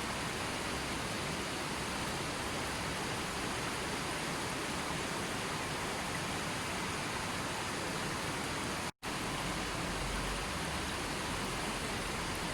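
Steady rushing water noise, an even hiss with no distinct drops or splashes, as from a waterfall or heavy flowing water. It cuts out for an instant about nine seconds in, then resumes unchanged.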